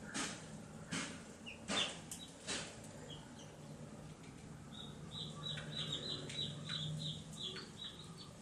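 Baby chicks peeping. A fast run of short high peeps, about four a second, fills the second half. A few sharp knocks or scratches come in the first couple of seconds, and a steady low hum runs underneath.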